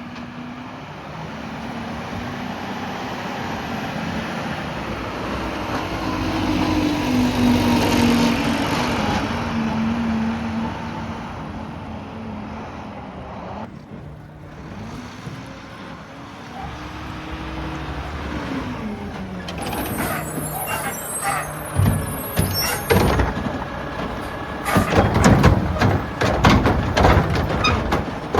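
Mack LR garbage truck's diesel engine revving up and down as it works, rising to a peak about a third of the way in. It is followed near the end by a run of loud clattering bangs.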